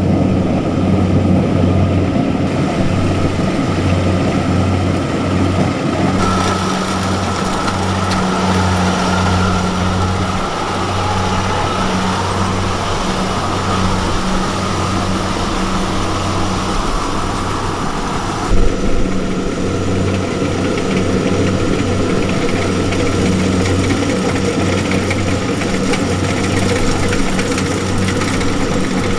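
Diesel engine of heavy farm machinery running steadily with a low hum. The sound shifts abruptly twice, about six seconds in and again about two-thirds through, where there is a brief knock.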